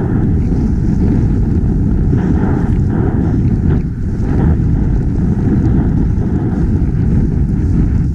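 Loud, steady wind rushing and buffeting over the microphone of a snowboarder riding fast through deep powder, with some softer swishing in the middle.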